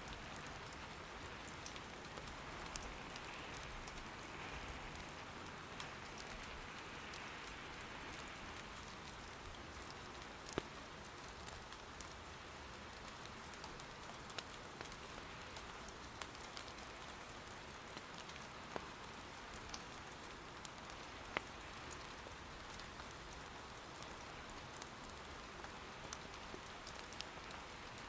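Soft, steady patter of rain, with scattered faint clicks and a few sharper pops from firewood crackling in an irori hearth.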